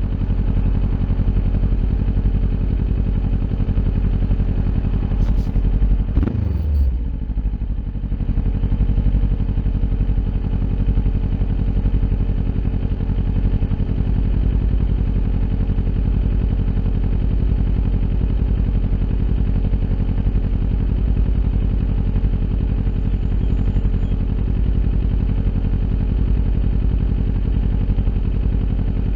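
Kawasaki Ninja 400's parallel-twin engine running steadily through an Akrapovic aftermarket exhaust. About six seconds in there is one quick pitch sweep that falls back to the steady note.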